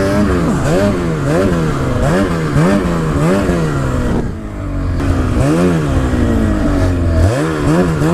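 Snowmobile engine revved up and down in repeated throttle blips, about two a second at first, then longer, slower swells, as the sled climbs and carves across a slope on a high line.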